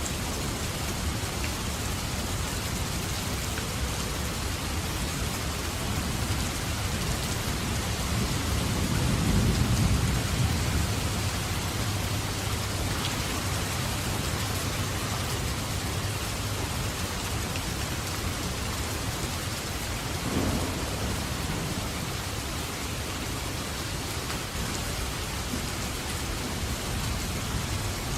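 Steady rain falling, with a roll of thunder that swells and fades about a third of the way in and a shorter low rumble about two thirds of the way in.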